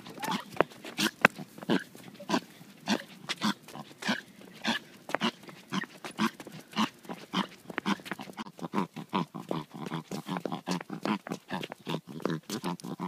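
A Pomeranian dog making weird noises: a fast series of short, rough, pig-like sounds. They are irregular at first, then settle into about three to four a second.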